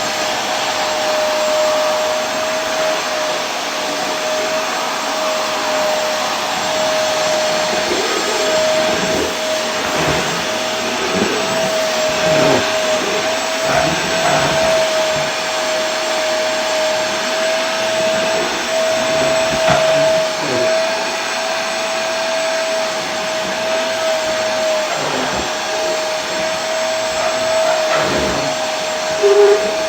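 Vacuum cleaner running steadily: a constant rush of air with a steady motor whine. A few faint knocks come through, and there is a short louder blip near the end.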